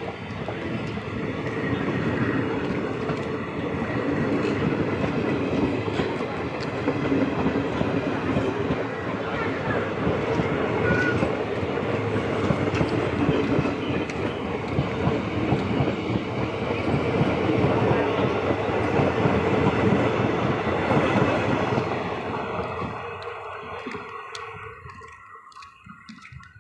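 Express train running along the track: a steady, loud rail noise that fades away over the last few seconds.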